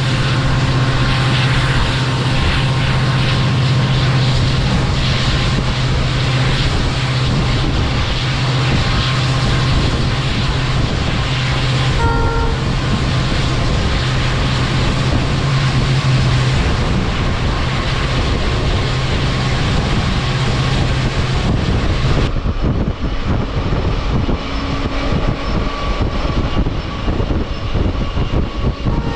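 Passenger train running along the track, heard from on board: a steady rumble with a strong low hum that dies away about two-thirds of the way through. A short high tone sounds briefly about twelve seconds in.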